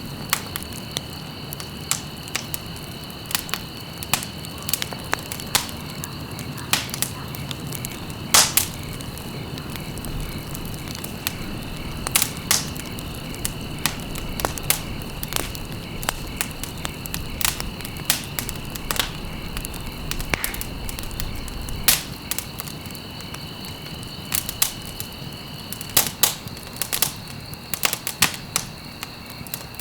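Wood fire crackling, with frequent irregular sharp pops over a steady low rush of flame. A steady high insect trill, like crickets, runs underneath.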